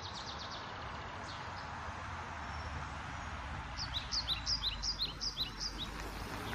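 Small bird chirping a quick run of short, high, falling chirps, about four or five a second, from roughly four seconds in to near six seconds. Under it runs a steady outdoor hiss, with a low rumble building toward the end.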